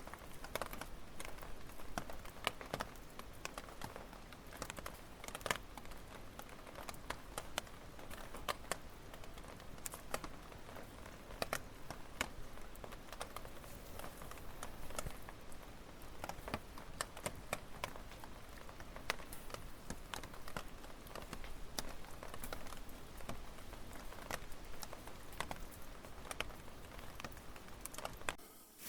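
Firewood burning in an open fire, crackling with irregular sharp pops and snaps, several a second, over a soft hiss. It stops abruptly at the very end.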